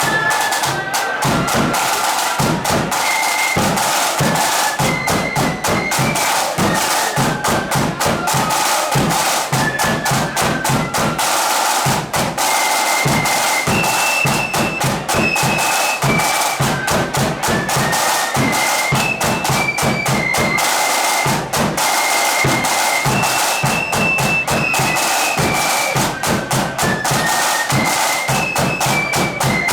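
A flute band playing in a hall: a melody on high-pitched flutes over snare drums and a bass drum.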